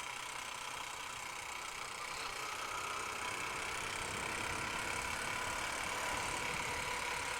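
Honda Unicorn single-cylinder motorcycle engine running steadily under way, with road and wind noise, growing slightly louder about three seconds in.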